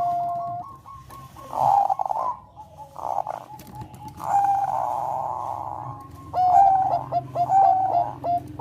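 Zebra dove (Thai perkutut bangkok) cooing. A held note comes first, then rolling, trilled coos, and near the end a quick run of short clipped notes.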